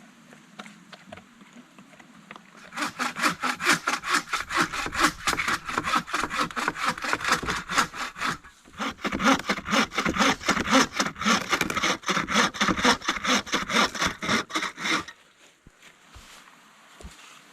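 Hand saw cutting through wood in quick, even back-and-forth strokes, in two spells with a brief pause between them.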